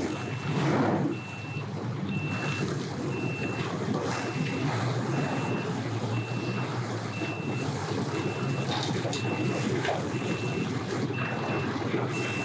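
Vehicle backup alarm beeping steadily about once a second, with an engine running low underneath: a vehicle reversing. A brief rush of noise comes about a second in.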